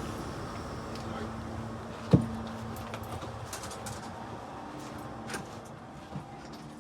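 Train ambience: a steady low hum with a single sharp knock about two seconds in, then scattered light clicks and rattles.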